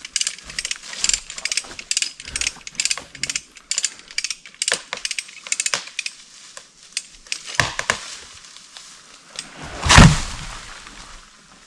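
Hand-cranked ratchet winch being worked, its pawl clicking in quick rapid runs with each stroke of the handle. About ten seconds in there is one loud, heavy thump.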